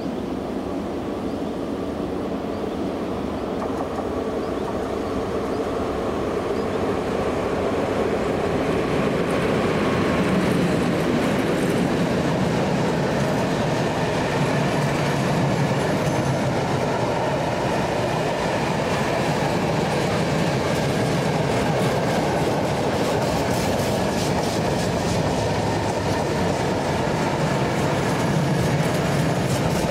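PKP Cargo ET22 electric locomotive hauling a long freight train of open wagons past at close range. A steady rumble grows over the first several seconds as the locomotive comes by, then holds while the wagons roll past, with clicking from the wheels over the rail joints in the last several seconds.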